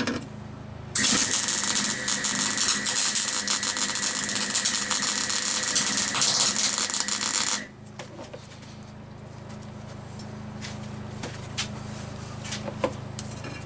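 Electric welding arc crackling as a bead is run on a steel gearbox-mount bracket. It runs for about six and a half seconds, then stops, leaving a steady hum with a few light clicks.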